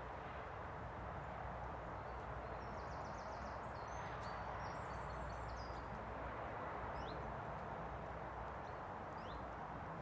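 Outdoor ambience: a steady rushing background with small birds calling over it. There is a quick run of short chirps a few seconds in, then a few single rising chirps later.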